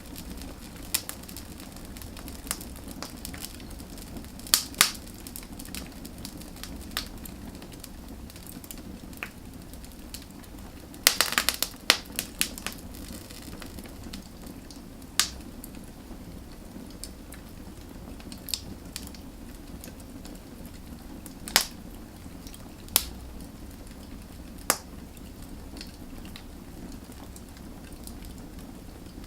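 Wood fire burning with a steady low rumble and irregular sharp crackles and pops, including a quick flurry of pops about eleven seconds in.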